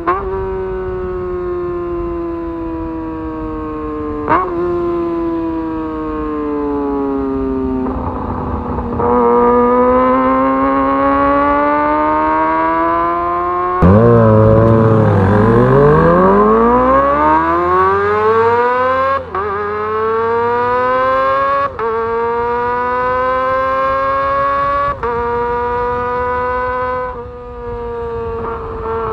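Kawasaki ZX-25R's 250 cc inline-four engine revving hard under way, with several brief cuts where the quickshifter snaps through upshifts, the revs dropping at each shift and then climbing again. Around the middle the revs fall away and then rise sharply and loudly.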